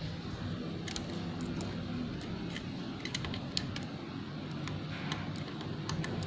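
Scattered, irregular light clicks of typing on a laptop keyboard, over a steady low background hum.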